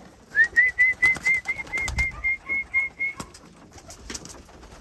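A fast run of about a dozen short, high whistled notes, roughly four a second, the first sliding up into pitch: a pigeon keeper's call whistle bringing homing pigeons in to the loft. Scattered sharp clicks sound around it.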